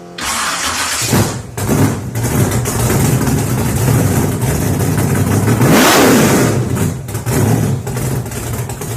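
Unlimited V8 jet sprint boat engine running hard at high revs, loudest about six seconds in where its pitch sweeps as it passes close.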